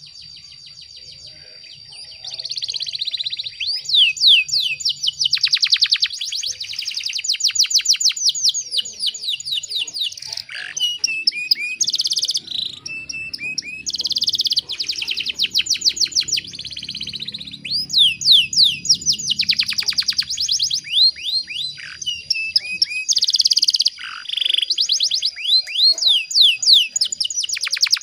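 Domestic canary singing: fast rolling trills of high, rapidly repeated sweeping notes, broken by short pauses and changes of phrase.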